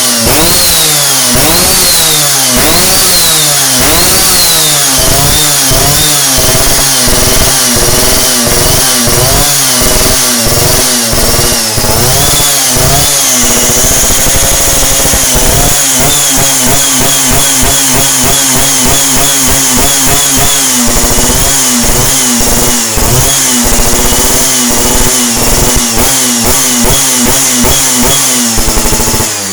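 Yamaha F1ZR two-stroke single revving through a KBRS aftermarket racing expansion-chamber exhaust (black belly with heat shield), blipped over and over so the pitch keeps rising and falling. The first swings are about a second apart; after that they come quicker and smaller.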